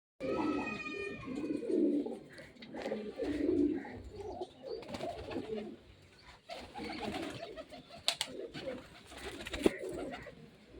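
Pigeons cooing repeatedly in low, rolling calls, with a couple of sharp clicks near the end.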